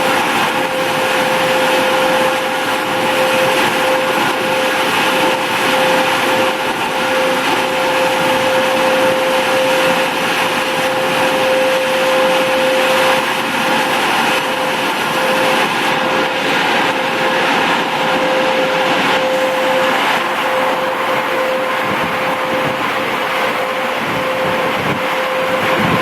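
Automatic car wash machinery running: a loud, steady whirring rush with a constant high whine through it. The hissy top of the noise thins about two-thirds of the way through.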